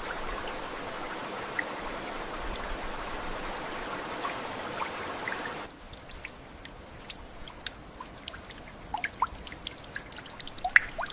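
Steady rushing water that cuts off abruptly a little over halfway through. After that comes quieter dripping and trickling water, with scattered sharp drops.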